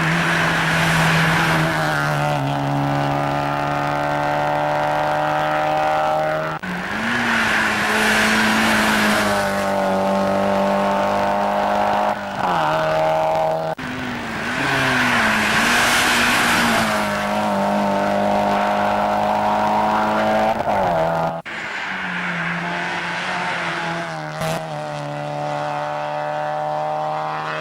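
Mazda MX-5 Cup race cars' four-cylinder engines running hard at a steady pitch that dips and rises a little, with a rushing noise swelling at times. The sound breaks off abruptly and resumes three times.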